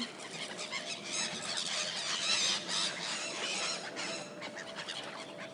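A flock of gulls squealing as they compete for thrown bread, many short high calls overlapping, busiest about two seconds in.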